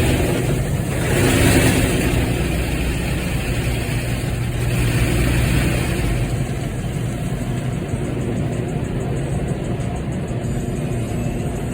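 Automatic car wash working over a car, heard from inside it: a steady low rumble with the car's engine idling. A rushing, scrubbing noise swells about a second in and eases off after about six seconds.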